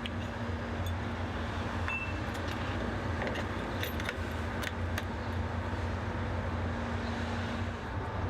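Heavy truck engine idling with a low rumble and a steady hum, with a few light clicks over it.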